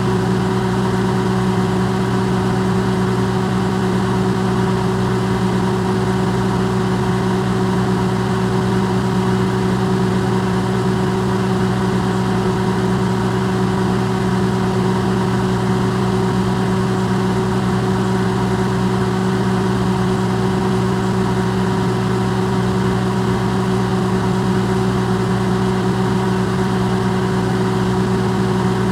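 Electrolux microwave oven running, recorded amplified: a steady, unchanging hum.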